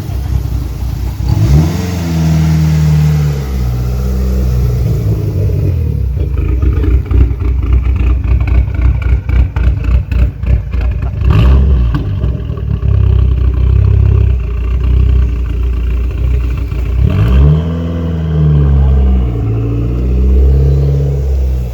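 Dodge Neon SRT-4's turbocharged 2.4-litre four-cylinder engine revving hard under acceleration, its pitch swinging up and back twice. In the middle the sound breaks into rapid choppy pulsing for several seconds.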